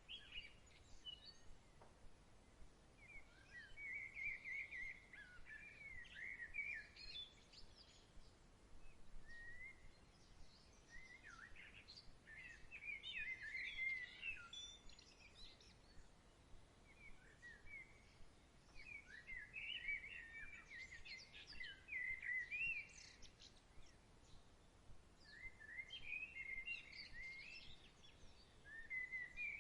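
Songbirds singing faintly in phrases of quick high chirps a few seconds long, recurring about every six to eight seconds, over a soft outdoor hiss.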